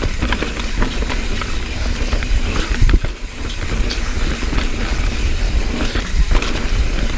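Mountain bike riding through a rocky trail section: a steady rumble of wind and rolling tyres with many sharp knocks and rattles as the bike hits the rocks.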